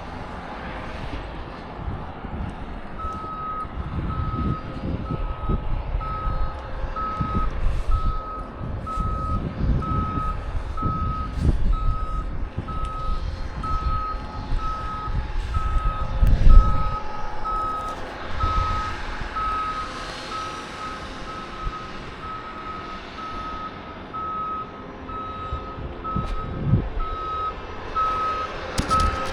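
A vehicle's reversing alarm beeping steadily, about once a second, over a low uneven rumble.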